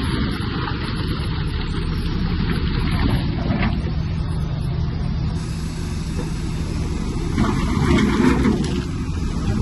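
Heavy diesel engine of earthmoving machinery running steadily under load, with a rougher, louder stretch about eight seconds in.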